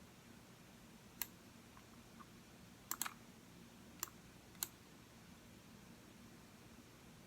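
Computer mouse button clicking: a single click about a second in, a quick double click near three seconds, then two more single clicks, all faint.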